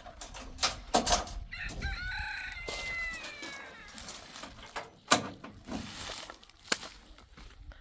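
A rooster crows once, a single call of about two seconds, with a few sharp knocks before and after it.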